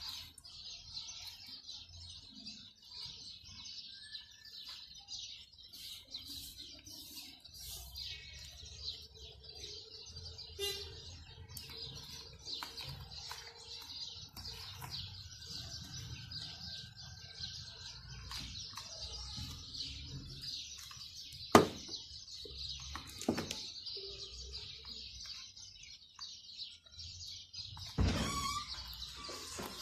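Small birds chirping on and on in quick high chirps, over a low hum. A few knocks, the sharpest about two-thirds of the way through, and a thump near the end.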